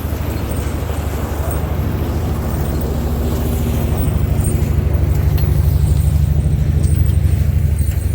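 Vehicle engine running steadily with a fast, even firing pulse, growing somewhat louder a few seconds in.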